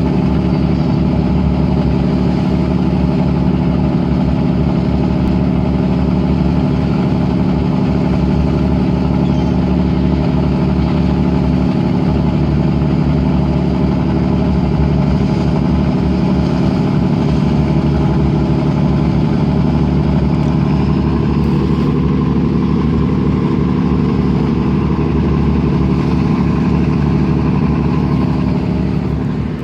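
Fishing boat engine running steadily at a constant speed, loud and close, with a deep, even drone. Its tone dulls slightly about two-thirds of the way through.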